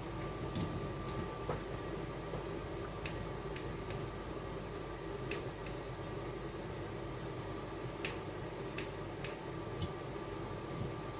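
Scattered light clicks and taps from handling raw shrimp during cleaning, about eight in all with the sharpest about eight seconds in, over a steady background hum.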